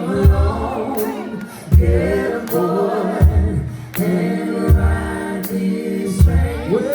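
Live gospel music: a vocal group singing in harmony over a band, with deep bass and drum hits landing about every second and a half.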